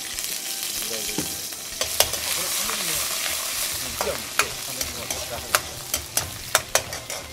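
Hot oil sizzling in a wok as a ladleful of seasoning paste fries in it, growing louder about two seconds in. A metal ladle stirs it, clinking sharply against the wok once early and several more times in the second half.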